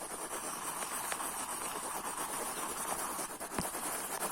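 Colouring pencils scribbling fast back and forth on notebook paper, a steady scratchy rubbing, with a single light tap about three and a half seconds in.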